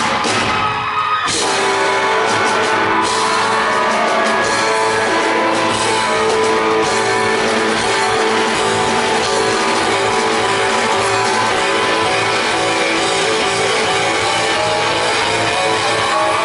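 Rock band playing live in a large hall: drums, bass, guitars and keyboards, with sustained held notes. The full band drops out briefly about a second in, then comes back in.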